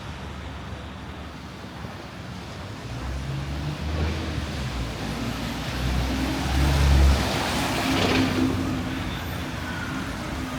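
Road traffic passing close by: a vehicle's engine rumble builds up and is loudest about seven seconds in, followed by a burst of tyre hiss as it goes past.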